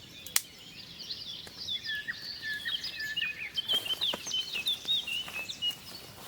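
Several songbirds singing and chirping together in a busy chorus of short, quick notes, densest in the second half. A single sharp click about half a second in, with a few softer clicks around the middle.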